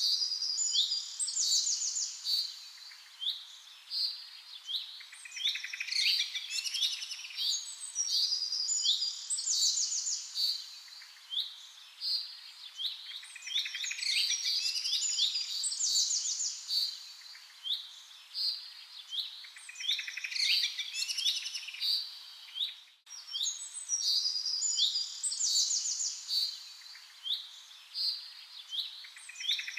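Several birds chirping and calling, with many quick, high chirps and trills coming in swells every few seconds. There is a brief break near three-quarters of the way through.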